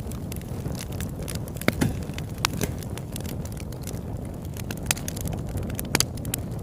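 Campfire burning: a steady low rumble under frequent sharp crackles and pops, with a few louder pops about two seconds in and near the end.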